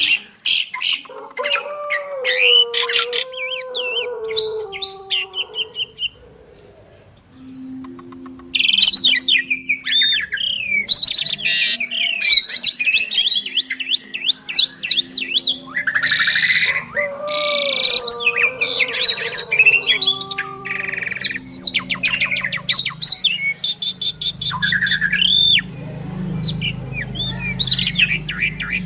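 Two Asian pied starlings (jalak suren) singing together in a long, varied song of whistled glides, fast rattling chatter and some low notes, with a brief lull about seven seconds in.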